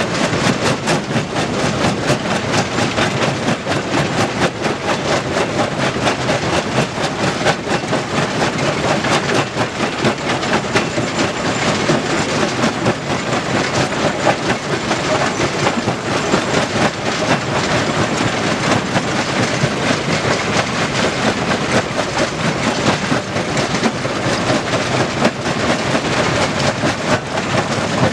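Stone crusher running, with a continuous dense clatter of rock rattling and grinding through the machine.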